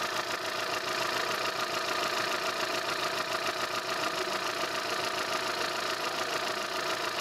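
2008 Kia New Morning's gasoline four-cylinder engine idling steadily with the hood open. No belt squeal and no knocking from the head are heard: a healthy idle.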